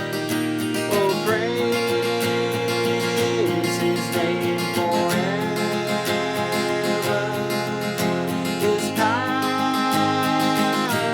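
Seagull S6 mahogany steel-string acoustic guitar strummed steadily, with a voice holding long notes that slide from one pitch to the next, in a slow Christmas carol.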